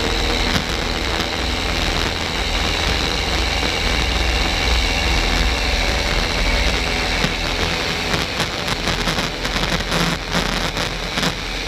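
Piper Cherokee's single piston engine running steadily at high power through the takeoff roll and climb, heard from inside the cabin.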